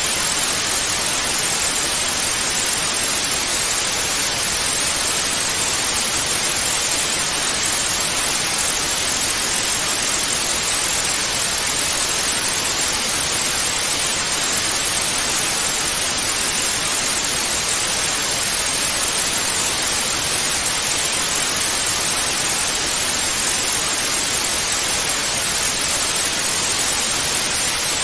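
Analogue TV static: a steady, even hiss of white noise, strongest in the upper range, with no change.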